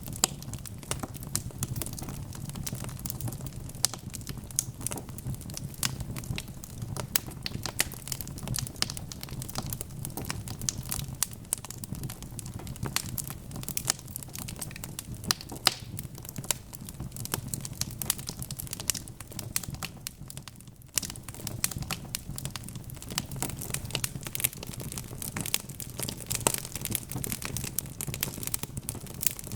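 Wood fire crackling, with dense irregular snaps and pops over a steady low rumble. There is a brief lull about two-thirds of the way through.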